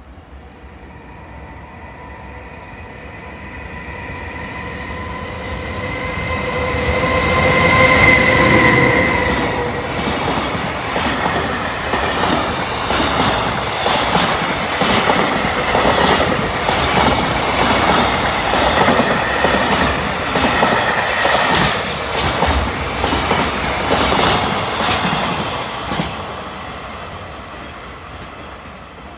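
EH500 electric locomotive hauling a freight train through a station at speed. It builds to its loudest about eight seconds in, with a steady pitched whine as it nears. Then a long run of wagons follows, their wheels clicking rhythmically over the rail joints, and the sound fades away near the end.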